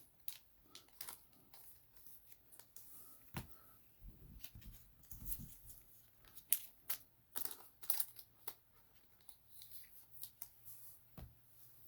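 Faint, irregular clicks and soft rustling of trading cards being handled and slid into plastic penny sleeves and rigid top loaders.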